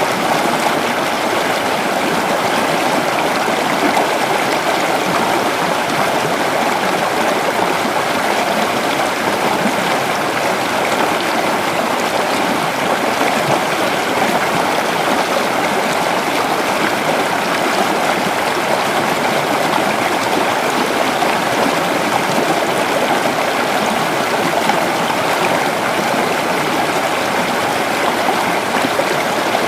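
A creek's water running over rocks, a steady rushing and babbling flow.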